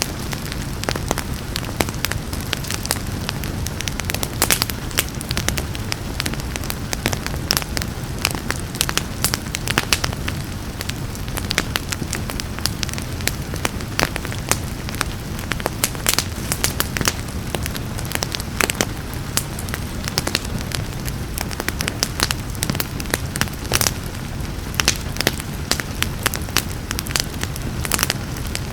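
Wood fire crackling and popping: a continuous crackle with many sharp, irregular pops over a steady low rush of burning, with a steady rain hiss mixed in.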